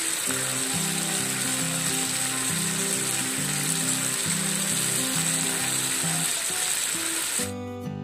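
Thick minced-pork sauce sizzling and bubbling in a hot pan around pieces of fried egg tofu, a dense crackle over background music. The sizzling cuts off abruptly near the end, leaving only the music.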